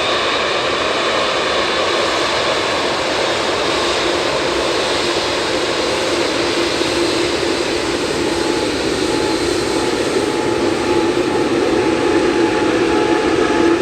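Boeing 787-9 jet engines running: a steady rushing roar with faint high whining tones, and a lower hum that grows stronger in the second half.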